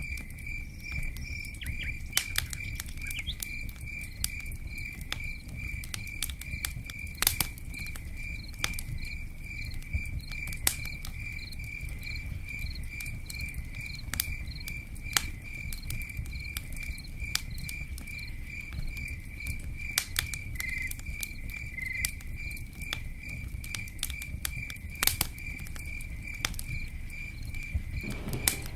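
Campfire crackling with sharp, irregular pops, over a steady low rushing noise. A cricket chirps steadily throughout, about three pulses a second.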